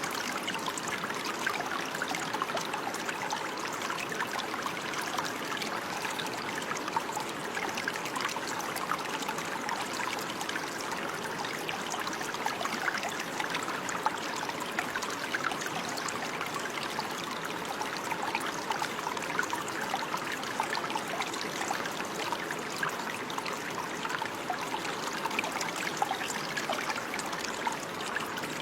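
Running water, a stream trickling and babbling steadily over stones, with a constant bright splashing texture.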